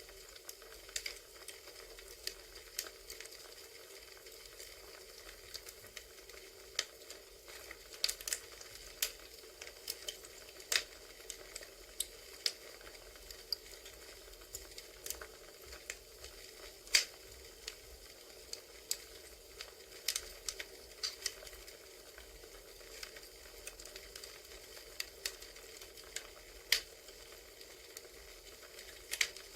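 Crackling wood fire: a steady soft hiss with irregular sharp pops and snaps, a few of them much louder than the rest.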